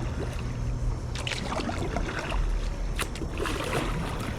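Kayak paddle dipping and splashing in the water in two spells of strokes, over a steady low rumble.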